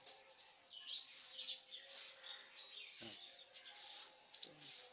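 Small birds chirping in the background, a rapid scatter of short high chirps.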